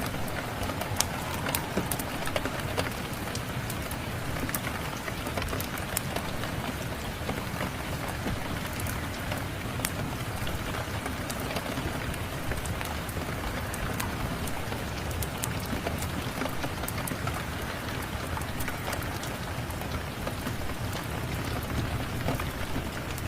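Steady rain, with scattered sharp crackles and pops from a wood fire burning in a fireplace.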